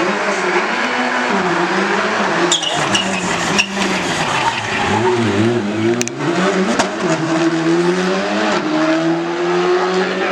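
Rally car engine revving hard, the pitch climbing and dropping again and again through gear changes and lifts, with a few sharp pops along the way.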